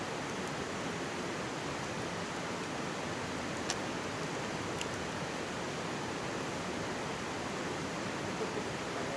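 Mountain stream rushing in a steady wash of water noise, with a few sharp crackles from a wood campfire, the loudest about three and a half seconds in.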